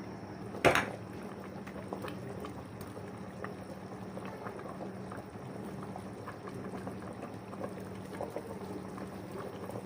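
Pot of camel trotter curry bubbling, small pops throughout over a steady low hum, with one sharp clink about a second in.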